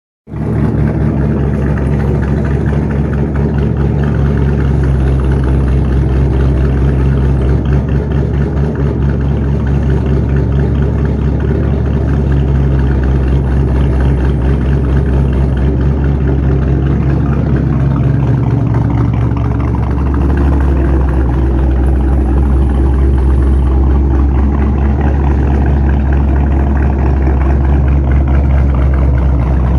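2006 Ford Mustang GT's 4.6-litre V8, fitted with an aftermarket camshaft and with its mufflers deleted, idling loudly and steadily through the open exhaust. The pitch shifts slightly about two-thirds of the way in.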